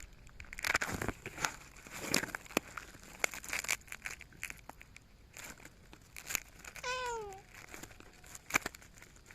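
Rustling and crinkling with scattered small clicks, and a domestic cat giving one short meow that falls in pitch near the end.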